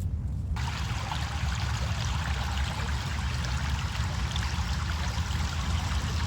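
Steady rush of running water, like a trickling stream, that starts abruptly about half a second in, over a constant low rumble.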